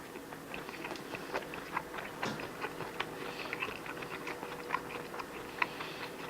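A person chewing and biting food: irregular small clicks and crunches, over a faint steady hum.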